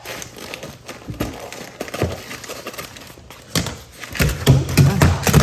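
Building-work handling noise: scattered clicks and knocks, with a run of heavier thumps in the last two seconds.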